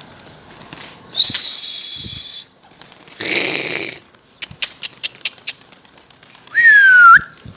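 A person whistling loudly to send domestic pigeons up to fly: one long, high whistle held steady, then a short rushing noise and a quick run of sharp claps, and near the end a shorter, lower whistle that slides down in pitch.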